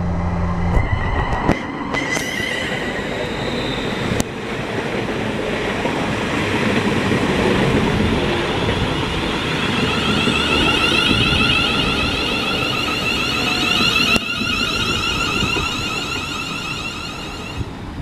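Class 360 electric multiple-unit train pulling into the platform: a steady rumble of wheels on rail, with several high, warbling whines that build up about halfway through and die away near the end.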